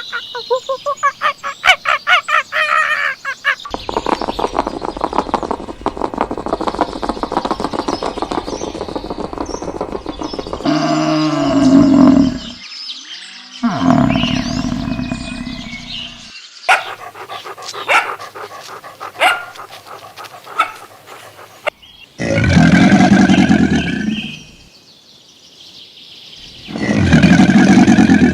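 A string of different animal calls cut one after another, about six clips in all. These run from rapid repeated calls and a dense fast chatter to sharp chirps. Two long, loud, low calls of about two seconds each come near the end.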